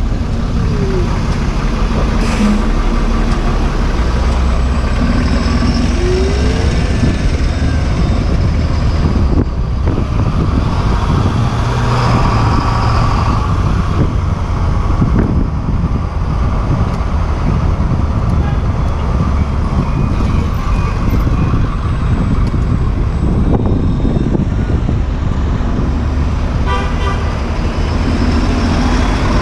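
Street traffic heard from a moving bicycle: cars and trucks running and passing, under heavy wind rumble on the action camera's microphone. A short run of rapid clicks comes near the end.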